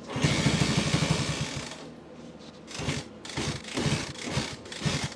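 Honda C200's small pushrod single-cylinder engine running hard for under two seconds, then stumbling and firing only in short uneven bursts about twice a second as it struggles to keep going with its idle and fuel mixture not yet set right.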